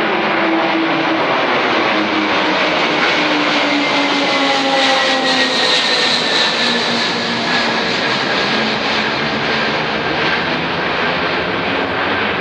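Large aircraft's engines running loud and steady, their whine and hum slowly falling in pitch.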